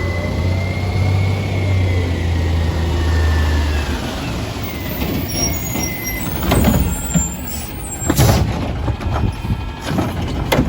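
A garbage truck at work. For about four seconds its engine runs strongly, with a whine that rises and falls. After that the low hum drops away, and several short, loud bursts of noise follow.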